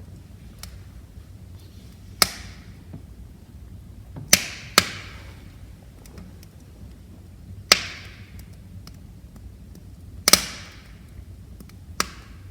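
Wood fire crackling in a fireplace: six sharp pops from the burning logs, two of them close together about four seconds in, with faint small ticks between them over a steady low rumble.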